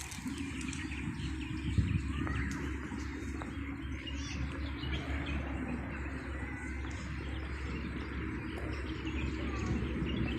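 Small birds chirping and twittering over a steady low outdoor background noise.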